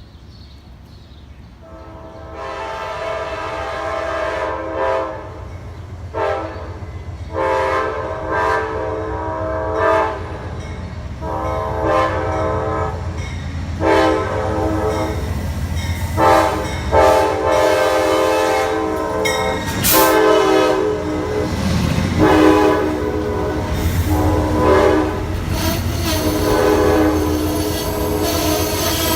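Approaching train sounding its locomotive horn in a series of long blasts with short breaks, over a low rumble of the train that grows steadily louder.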